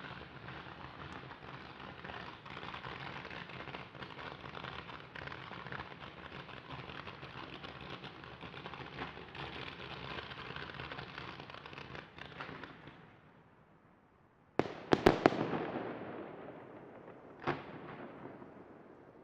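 Fireworks: a long spell of dense crackling that dies away about 13 seconds in, then after a brief lull a cluster of loud bangs with a long fading echo, and one more bang a couple of seconds later.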